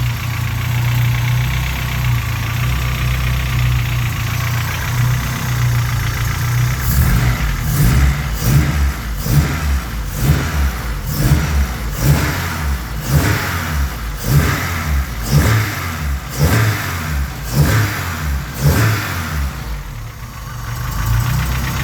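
Cold Honda engine running with a rapid 'ta ta ta' knock, which the owner takes for piston slap that fades once the oil warms. From about seven seconds in, sharp surges come about one or two a second until near the end.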